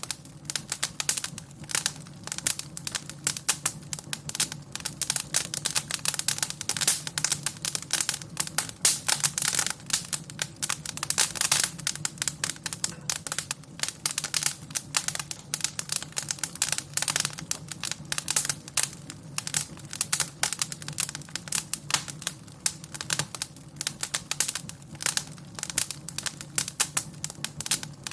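Wood fire crackling in a fireplace: a dense, irregular run of sharp pops and snaps over a low, steady rumble.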